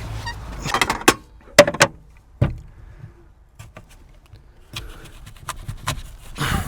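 Handling sounds: a series of sharp clicks and knocks with light rustling in between, most of them bunched in the first couple of seconds and again near the end.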